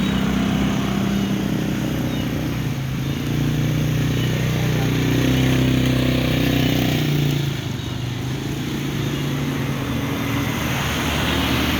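A motor vehicle engine running, its pitch rising over a few seconds and then dropping away suddenly about seven and a half seconds in, over steady street noise.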